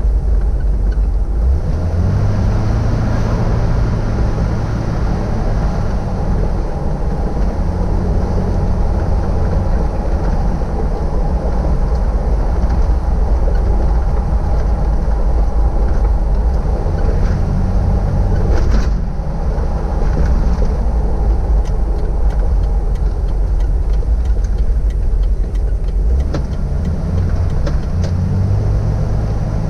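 Jeep Wrangler TJ's 4.0 litre inline-six running steadily under way, with road noise; the engine's low hum steps up a couple of times as it picks up speed. One sharp knock comes about two-thirds of the way through.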